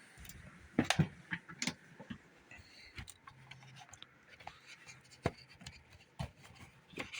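Scattered sharp clicks and knocks from objects being handled, the loudest about a second in, over a faint background hum.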